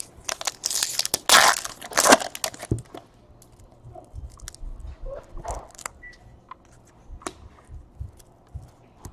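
Trading-card pack wrapper being torn open and crinkled: loud crackling for the first two seconds or so. After that come softer clicks and rustles of cards being handled.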